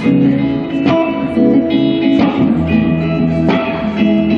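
Live band music: guitar chords ringing out in an instrumental passage between sung lines, with a strong strum or beat about every second.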